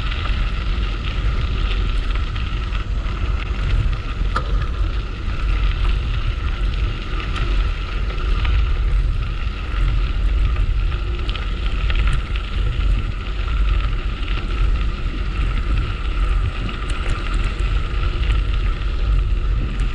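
Wind buffeting the microphone on a moving bicycle, with the steady crackle and rustle of tyres rolling along a dirt trail.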